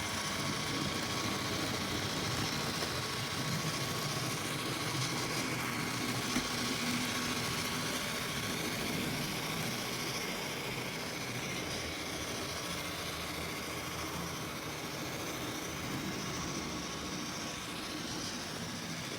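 Bachmann N scale SD9 model diesel locomotive running steadily on loose track, its onboard sound decoder playing diesel engine sound over the running noise of the motor and wheels on the rails.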